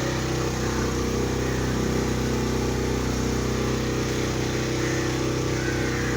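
Boat's inboard engine running steadily at cruising speed, a constant low drone with an even, unchanging pitch.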